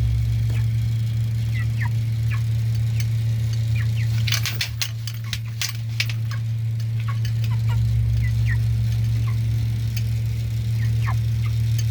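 Five-week-old broiler chickens giving scattered short peeps over a loud, steady low hum. About four seconds in comes a brief flurry of clicks and rustling, like the birds scratching and pecking in the litter.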